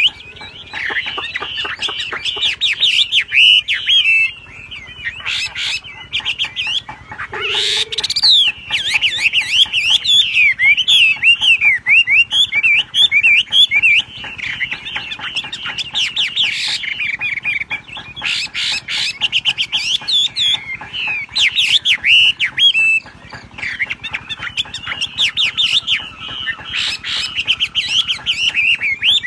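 A wambi songbird singing non-stop in rapid, twittering, whistled phrases that bend up and down, with a few brief pauses. Indonesian bird keepers call this full, energetic singing "gacor" and "ngebrem".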